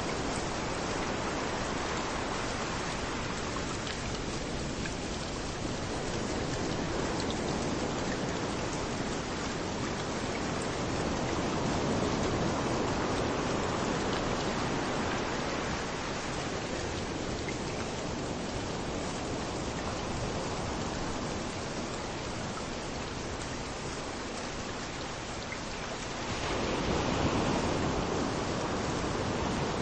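Steady rain falling, mixed with waves washing in on a beach; the noise swells and eases slowly, with a surge near the end as a wave comes in.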